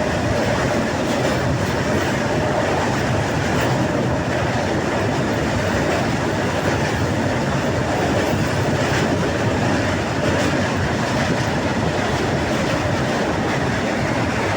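Moving passenger train heard from inside a coach: steady rumble and rushing noise of the wheels on the track, with faint scattered clicks from the rail joints.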